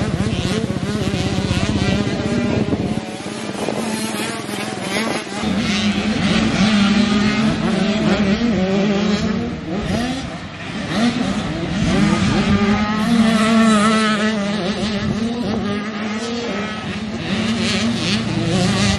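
Several motocross bikes racing on a dirt track, their engines revving up and down through the gears as they pass.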